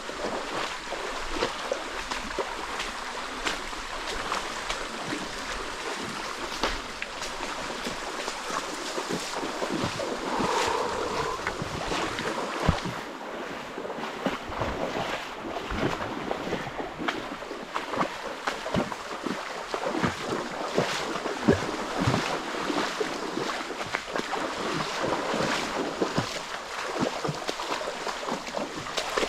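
Water of a waterfall or fast stream rushing and splashing steadily, with many small splashes throughout.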